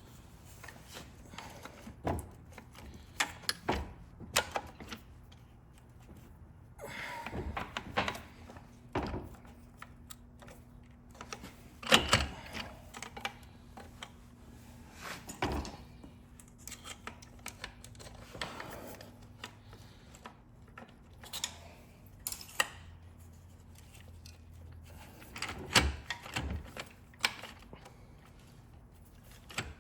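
Scattered metallic clicks, clinks and knocks as automatic-transmission internals and hand tools are handled during a teardown, loudest about twelve seconds in and again near the end.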